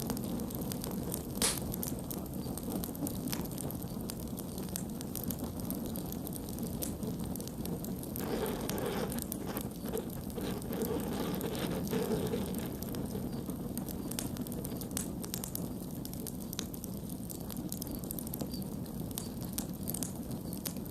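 Campfire burning: a steady low rush of flames with scattered crackles and pops, one sharp pop about a second and a half in. For a few seconds in the middle the fire grows louder.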